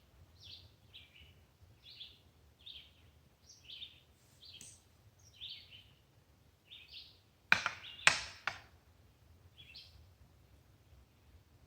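A small bird chirping repeatedly, short high calls about once a second. Two sharp cracks half a second apart a little past the middle are the loudest sounds.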